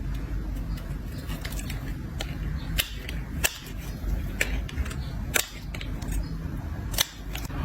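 A blade scraping and cutting dry soap, with crisp snaps and cracks coming irregularly about a second apart, over a low steady rumble.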